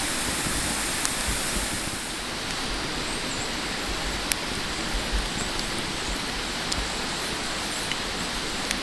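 Food sizzling on a grill over a charcoal fire: a steady hiss with scattered sharp crackles and pops.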